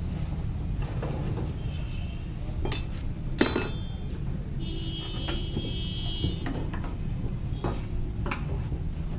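Metal parts clinking and ringing, with two sharp strikes and then a longer high ring, over a steady low hum.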